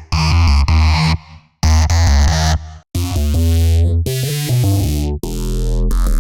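Vital software synthesizer bass presets playing: short chopped stabs that cut off abruptly, then longer held notes, and about five seconds in a steady deep bass note with a sweeping filter movement.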